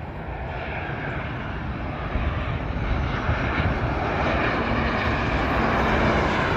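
Jet noise from a Boeing 737-800 airliner on final approach, a steady rushing sound that grows gradually louder as the plane draws nearer. A faint steady hum joins near the end.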